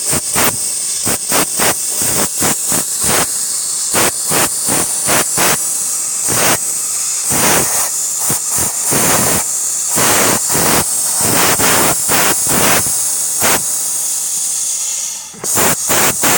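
Compressed air hissing from an air gun as it is fed in short bursts, about two a second, into a 2002 Pontiac Bonneville's rear air shock to inflate it and raise it. There is a brief pause near the end before the bursts resume.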